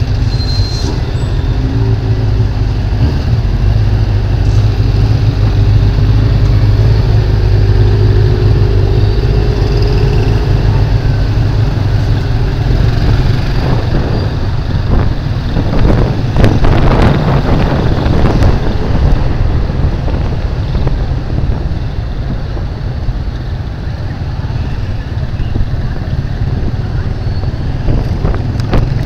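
Motorcycle engine running while riding in street traffic, with other vehicles around it. A steady engine hum holds through the first part, and a louder rush of passing traffic comes a little past the middle.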